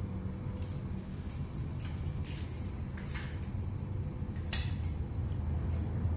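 A bunch of keys jingling with a few sharp clinks as the ignition key of a converted school bus is turned to on, over a steady low hum.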